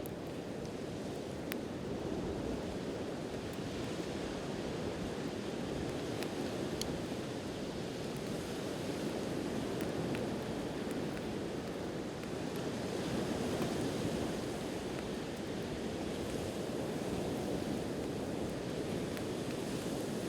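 Sea surf washing steadily on the shore, swelling and easing, with a wood campfire giving a few sharp crackles.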